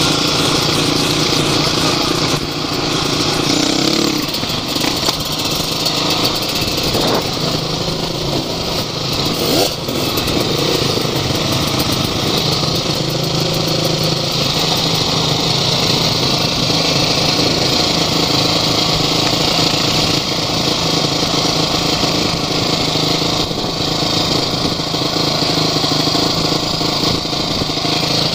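Off-road vehicle engine running continuously under way, its note holding fairly steady with some shifts in the first ten seconds.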